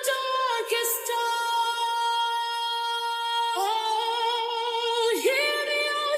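Music: a solo high female voice singing, holding one long steady note, then moving to a new pitch about three and a half seconds in and gliding between notes near the end, with no bass beneath it.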